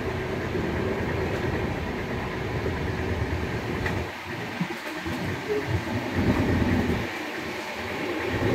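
Express train running, with a steady rumble of the coaches heard from on board. About four seconds in the deep rumble drops and turns uneven.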